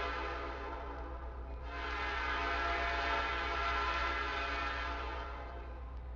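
Train horn sounding long blasts as a steady chord. One blast trails off about a second and a half in, and the next starts soon after and lasts about three and a half seconds, over a steady low rumble.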